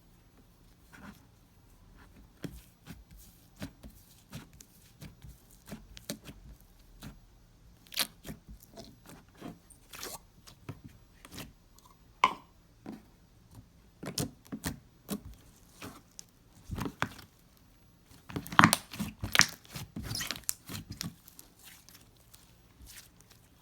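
Slime being squeezed, pulled and torn by hand: a string of small wet clicks, pops and tearing crackles, thickening into a louder, denser run of crackling about three quarters of the way through.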